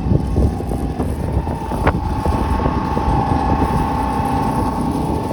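Pickup truck driving, with heavy wind rumble on the microphone. A steady whine comes in about a second in.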